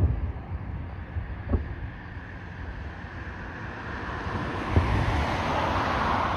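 Distant aerial firework shells bursting: three sharp reports, first about a second and a half apart and then about three seconds apart, over a low wind rumble on the microphone. In the second half a hiss swells and starts to fade as a car passes close by.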